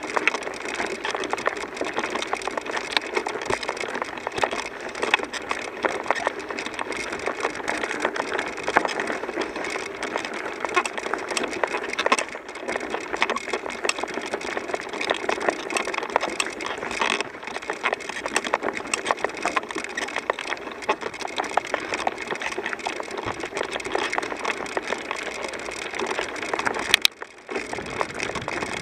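Continuous crunching and rattling made of many small, rapid clicks, dipping briefly near the end.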